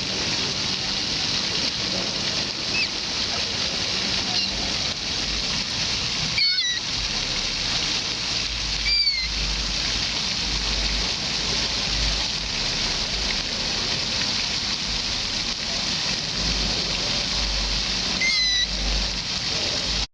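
Steady rush of water, with short falling bird calls heard three times (the first two a few seconds apart, the third near the end) and low buffeting at times, like wind on the microphone.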